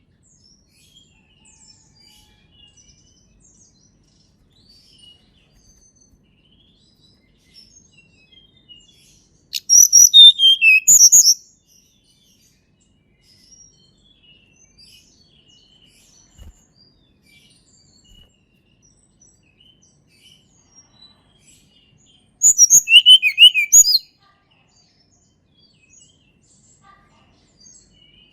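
Tledekan gunung singing: two loud song phrases about thirteen seconds apart, each a quick run of high notes sliding downward, with faint scattered chirps in between.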